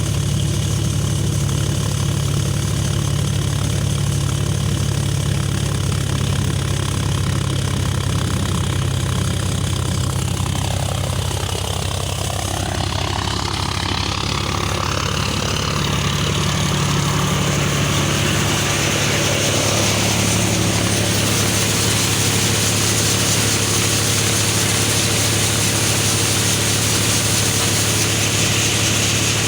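John Deere 5050D tractor's three-cylinder diesel running steadily while it drives an NVT thresher. About halfway through, a broader rushing noise builds over the engine and stays, as the thresher works.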